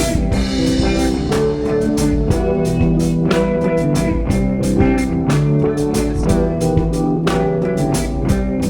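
Live band music: electric guitar over a drum kit, playing steadily with a regular beat.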